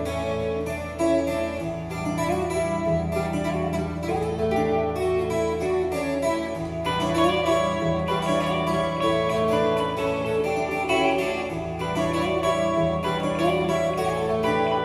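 Guitars playing a bluesy instrumental in the style of spaghetti-western soundtracks: quick plucked notes over sustained low notes.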